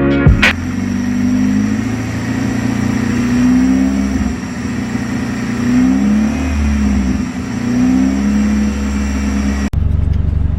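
Hyundai Genesis Coupe's rebuilt 2.0-litre turbocharged Theta four-cylinder running while it warms up after its first start, its note wavering gently up and down. The sound changes abruptly near the end while the engine keeps running.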